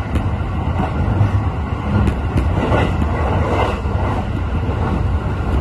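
Steady rumble of an E531-series electric train running at speed, heard from inside the passenger car, with wheels on the rails and a few faint clicks.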